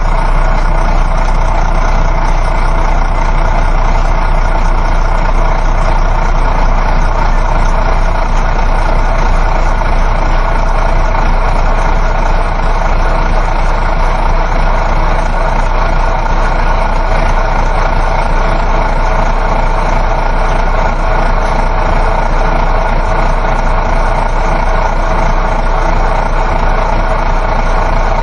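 Coach bus travelling, heard from inside the passenger cabin: a steady engine drone mixed with road and tyre noise.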